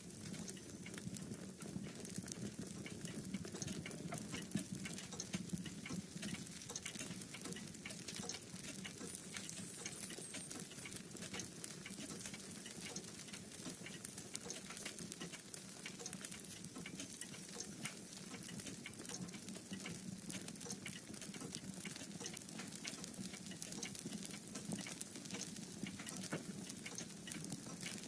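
Wood fire crackling in a fireplace: dense, irregular small pops and snaps over a low, steady rumble of the flames.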